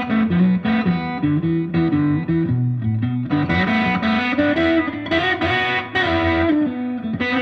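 Electric guitar (a Fender Stratocaster) playing a shuffle vamp in B, with the lower strings picked in a moving line while the open high B string rings on as a drone above them. The tone is slightly overdriven.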